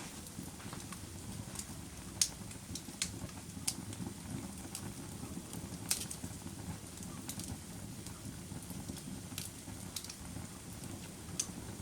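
Campfire burning: sharp crackles and pops at irregular intervals over a low, steady rush of flame.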